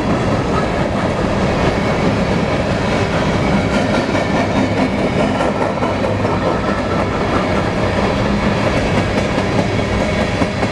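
Freight train of grain hopper cars rolling past: a steady rumble with continuous clatter of the wheels over the rails.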